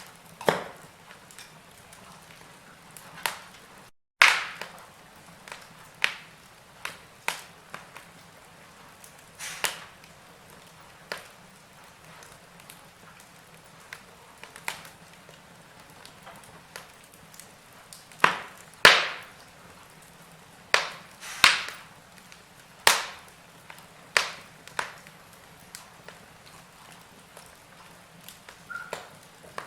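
Wood fire in a fireplace crackling, with irregular sharp pops and snaps over a faint steady hiss, the pops coming thicker later on. The sound cuts out for a split second about four seconds in.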